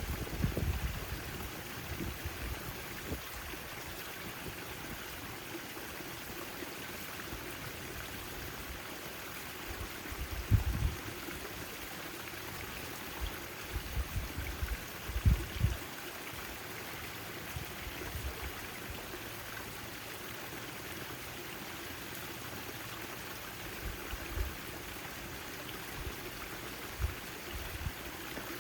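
Backyard fountain: a steady splash and trickle of falling water. A few brief low rumbles break through now and then.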